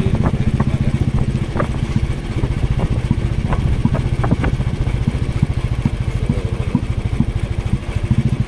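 Motorcycle engine running steadily while riding, an even rapid firing pulse, with scattered short clicks and knocks over it.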